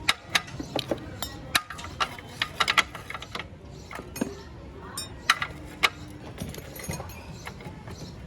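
Steel spanners clinking and tapping against a motorcycle's rear axle nut and bolt while the seized nut is worked loose: an irregular run of sharp metallic clicks.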